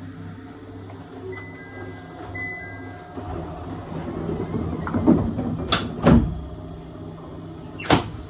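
701 series electric train running, heard from the cab: a steady low hum with a rumble building up, then several sharp clacks about five, six and eight seconds in.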